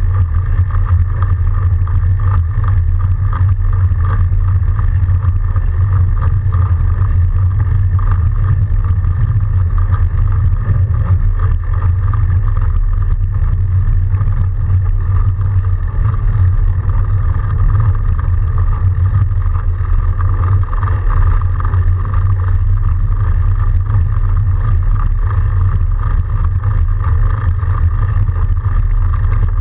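Steady low rumble of a fat bike riding through snow, with a fainter hum above it that holds even throughout.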